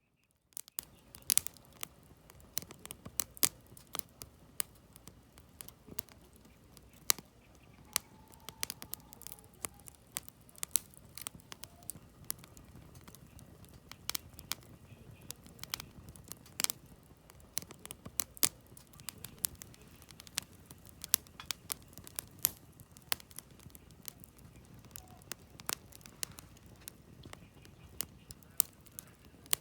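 Campfire of burning firewood crackling: irregular sharp pops and snaps over a low steady rustle of the flames, starting after a brief silence less than a second in.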